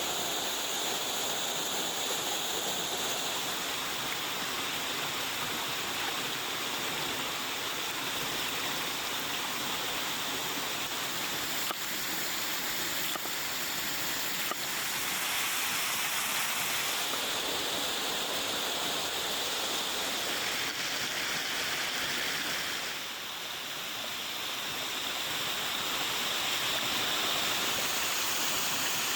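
Steady rush of water from a waterfall, with a couple of faint ticks about halfway through.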